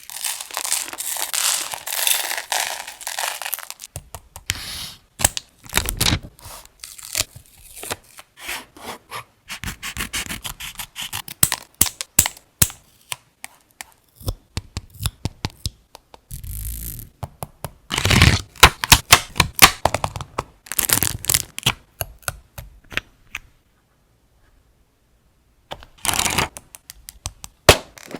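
Paper and craft materials being handled for scrapbook journaling: rustling, rubbing and scraping with many sharp clicks and taps, broken by a pause of a few seconds near the end.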